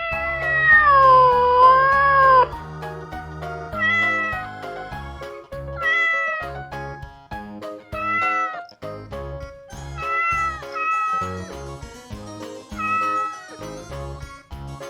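Domestic cat meowing: one long, wavering meow, then about six shorter meows roughly every two seconds, over background music with a steady beat.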